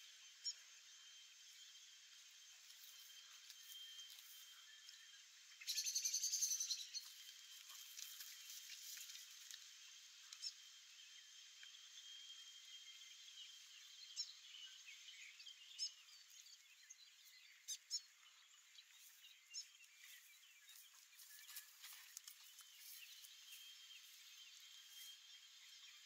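Faint birdsong: a short burst of warbling song about six seconds in, then scattered chirps, over a thin steady high hum.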